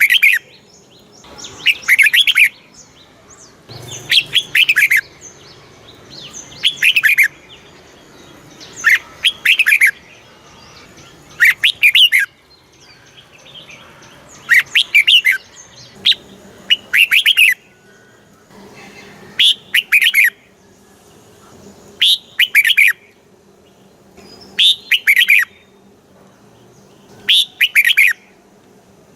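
Red-whiskered bulbul singing: short, loud phrases of quick falling whistled notes, repeated about every two to three seconds. This is the southern-style master song played to caged bulbuls to excite them and teach them song.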